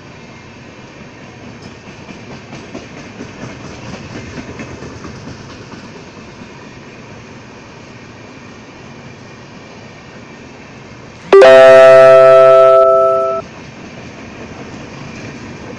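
A passenger train running past, with a steady rumble and clatter of its wheels. About eleven seconds in, a loud electric-locomotive air horn sounds a chord for about two seconds, fading slightly before it cuts off.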